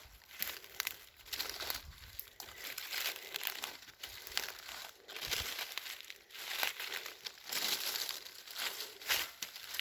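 Irregular crackling and rustling of dry leaves and twigs underfoot on a forest floor, growing louder in the second half.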